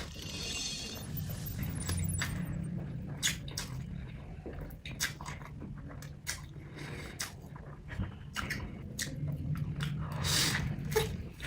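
Close-miked chewing and biting of noodles, a string of irregular short mouth clicks and bites over a steady low hum.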